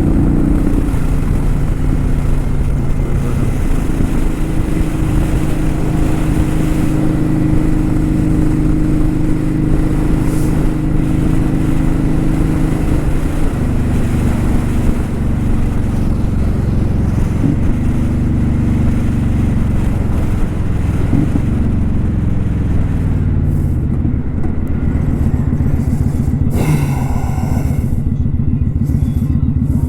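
Kawasaki Vulcan 900 Custom's V-twin engine running under way, its pitch stepping up and down with gear changes. In the last third it slows and falls in pitch, with a brief rush of noise, and settles into a steady low beat.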